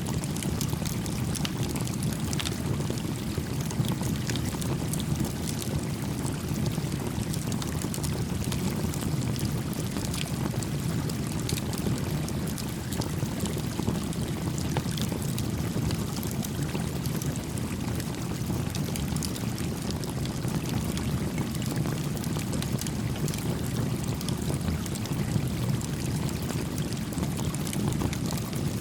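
Small campfire crackling with many scattered sharp pops over the steady rush of a gently flowing stream.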